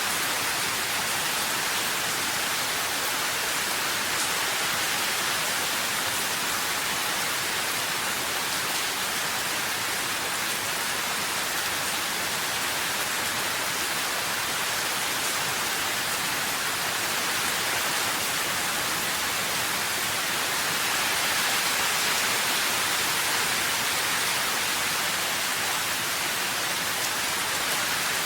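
Steady rain, an even hiss that swells slightly a little over twenty seconds in.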